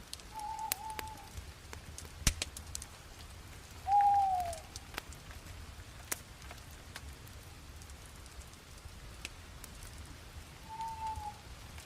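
Bonfire crackling with scattered sharp pops, one loud pop about two seconds in. Three short whistle-like calls come over it: one near the start, one about four seconds in that falls in pitch and is the loudest sound, and one near the end.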